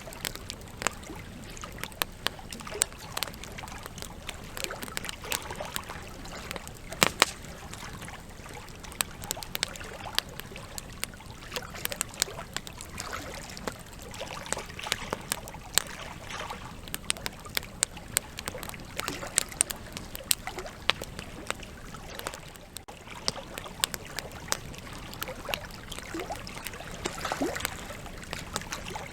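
Campfire logs burning, with frequent irregular crackles and sharp pops over a steady low hiss of the flames.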